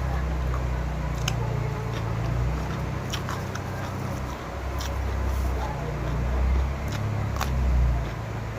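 Eating sounds: chewing, with a few short clicks of utensils, over a low, uneven rumble.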